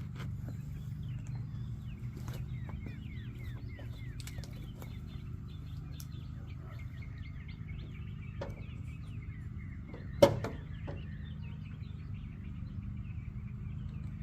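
Car engine idling steadily, with small birds chirping over it and one sharp knock about ten seconds in.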